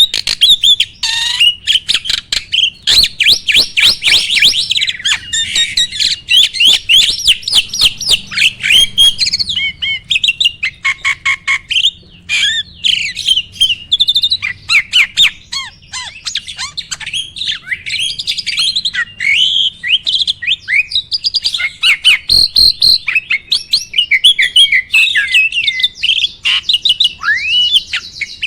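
A starling (jalak) singing a long, fast, varied song of chattering trills, whistled notes and squawks mixed with sharp clicks, with a harsh buzzy note near the end.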